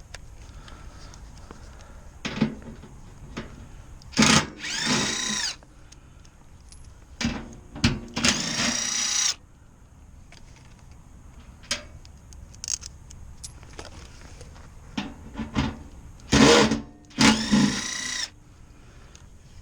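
Cordless power drill running in short bursts, three times, each spinning up quickly to a steady whine for about a second, with light tool clicks and knocks in between.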